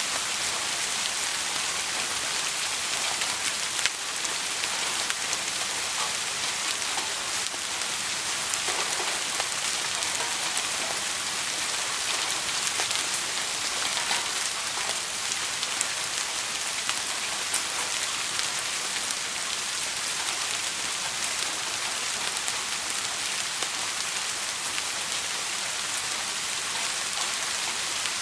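Steady rain, an even hiss with scattered faint ticks of drops and one sharper click about four seconds in.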